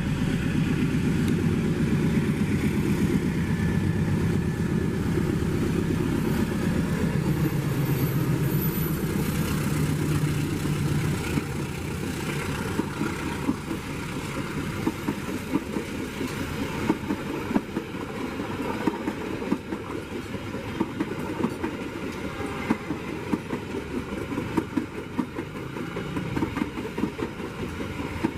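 Diesel-electric locomotive passing close by with its engine running, followed by a long rake of passenger coaches rattling past, their wheels clacking rhythmically over the rail joints. The engine sound is loudest in the first ten seconds or so, then gives way to the steady wheel clatter of the coaches.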